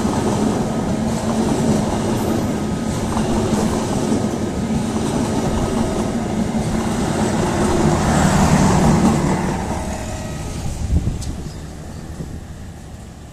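The Lodaya express's passenger cars rolling past, their wheels rumbling steadily on the rails. The sound fades as the last car moves away, with a single sharp thud about eleven seconds in.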